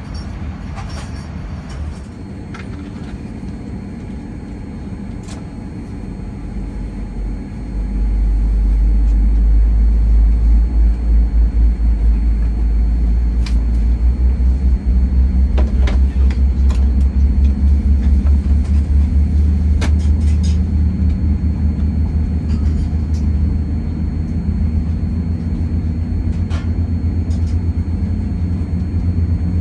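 Low, steady rumble inside a Boeing 787-9 cabin before departure, getting much louder about eight seconds in and staying loud, with a few faint clicks.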